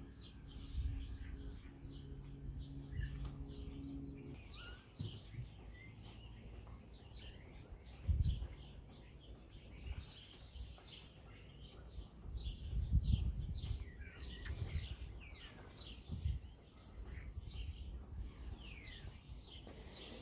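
Small birds chirping and twittering, many short falling chirps. A low steady hum runs underneath and stops about four seconds in, and twice there is a stronger low rumble.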